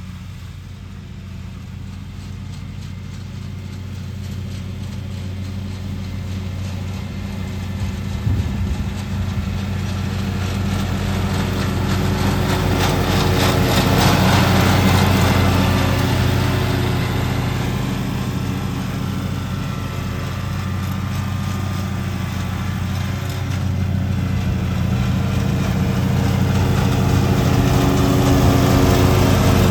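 Lawn mower engine running steadily under load, growing louder and fading again as the mower comes close and moves away, twice.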